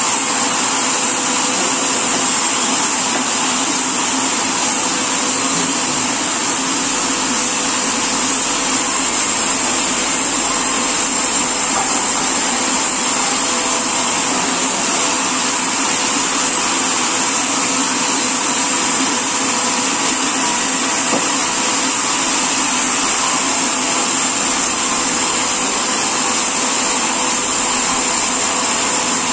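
Sawmill machinery running steadily: a loud, unchanging mechanical noise with a high whine over it.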